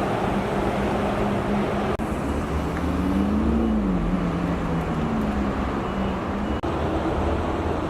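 Car running at steady speed with tyre and road noise, its engine tone rising and then falling back a few seconds in.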